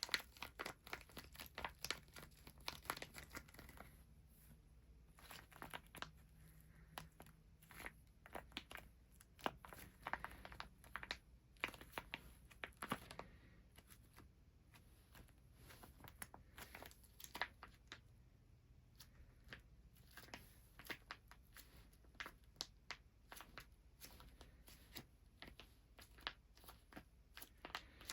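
Hands massaging a person's feet: soft, scratchy skin-on-skin rubbing with many small irregular clicks and crackles.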